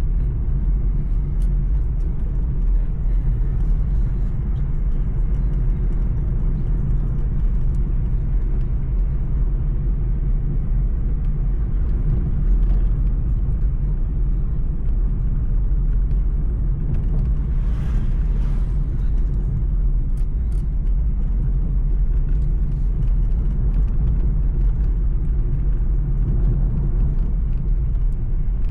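Steady low rumble like a moving vehicle's engine and road noise, with a brief hiss about two-thirds of the way through.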